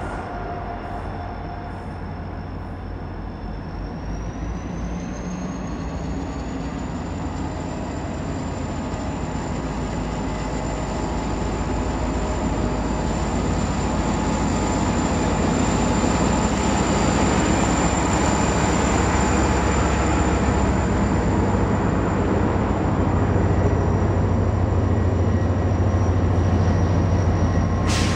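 Freight train rolling past, a steady rumble that grows gradually louder, with a thin high whine that rises in pitch early on and then holds.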